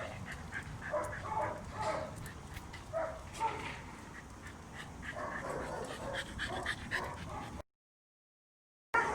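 A dog whimpering and yipping in short, high calls, broken by a second or so of dead silence near the end.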